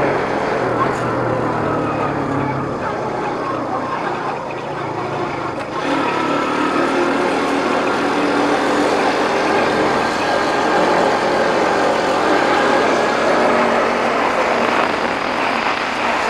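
Motorbike engine running on the move, with steady wind rush over the microphone.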